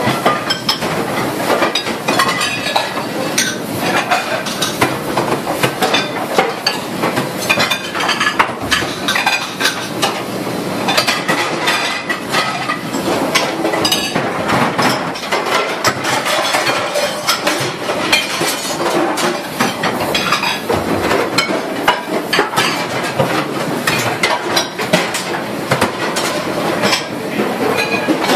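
Fast, continuous clatter of metal pots, pans and dish racks being handled and knocked together at a commercial dish sink.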